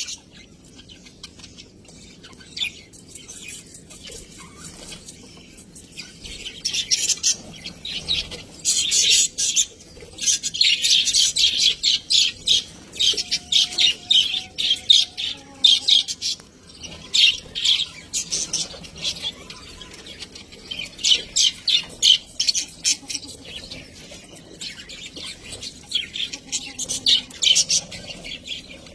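Budgerigars chattering, rapid high chirps coming in bouts, busiest from a few seconds in to about halfway and again in short runs towards the end.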